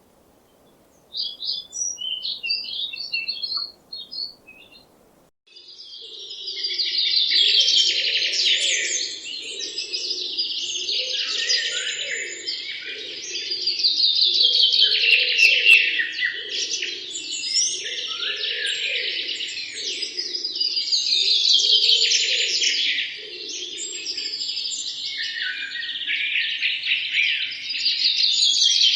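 Birds chirping: a few short separate chirps, then, after a break about five seconds in, a dense, continuous chatter of many birds that swells and eases in waves every few seconds.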